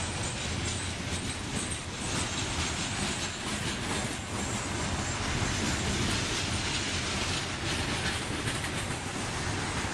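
Coal hopper cars of a slow freight train rolling past, their steel wheels running on the rails with a steady rumble and clatter.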